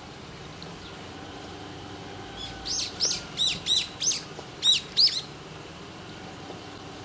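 A songbird calling a quick series of about eight sharp chirps, each arching up and then falling in pitch. The chirps start a couple of seconds in and last about two and a half seconds.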